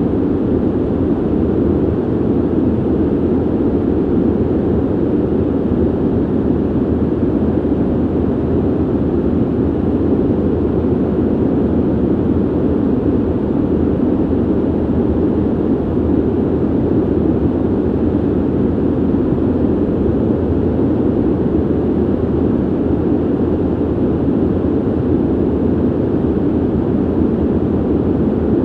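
Steady, low ventilation rumble, an even whooshing noise with no changes.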